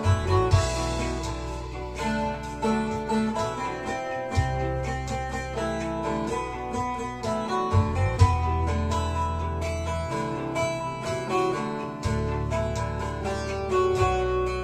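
Bağlama (Turkish long-necked saz) playing an instrumental melody in quick plucked notes over held bass notes that change every few seconds.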